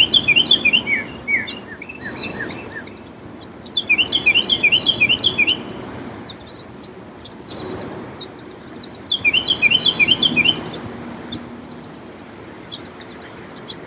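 A small songbird sings a fast, high song of many rapid notes lasting about two seconds. It repeats the song three times, about every five seconds, with a few short single calls in between. Underneath is a steady, gentle wash of small lake waves.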